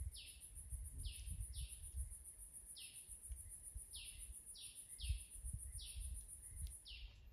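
A bird giving short, downward-sliding chirps at uneven intervals over a high, steady, pulsing insect trill that stops near the end. An uneven low rumble runs underneath.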